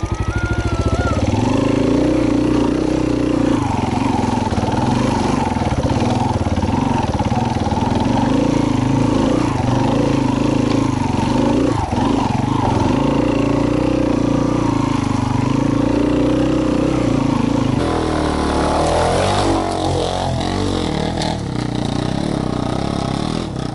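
Trail motorcycle engine running at a steady pace for most of the time, its pitch wavering up and down for a few seconds near the end.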